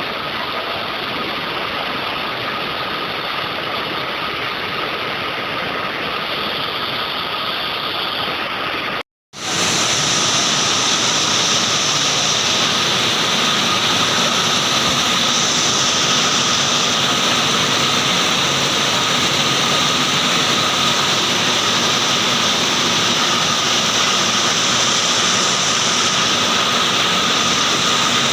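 Heavy rain pouring, a loud steady hiss. It breaks off for a moment about nine seconds in and comes back a little louder.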